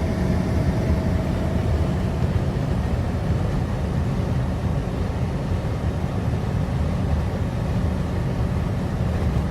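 Steady road and engine noise from a moving straight truck: a continuous low rumble with an even rushing hiss over it.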